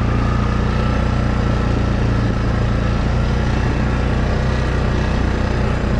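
ATV engine running steadily, its pitch holding even.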